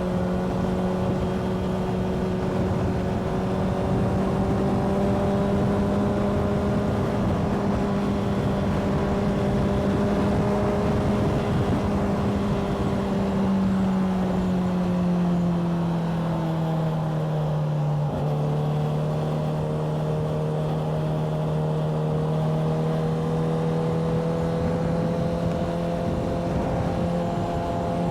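Motorcycle engine running under way at a steady pitch. About halfway through the pitch sags as the bike eases off, and it picks up again near the end.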